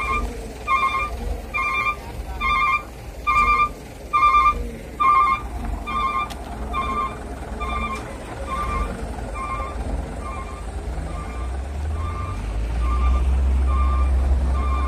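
A heavy vehicle's reversing alarm beeping steadily, about three beeps every two seconds, the beeps growing fainter in the second half. Under it a heavy vehicle's engine rumbles, louder near the end.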